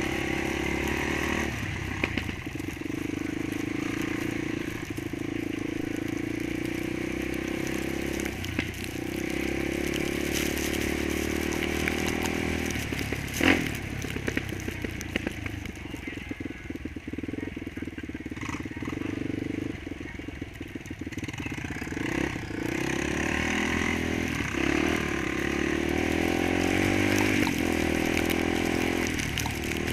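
Single-cylinder four-stroke ATV engine running throughout, its pitch dipping and rising as the throttle changes, with one sharp knock about halfway through.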